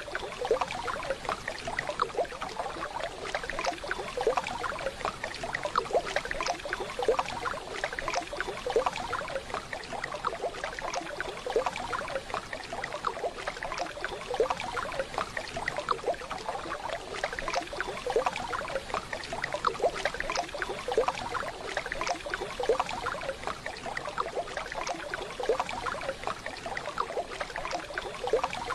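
Waterfall recording: water running and splashing steadily, a dense, even rush with many small splashes and gurgles.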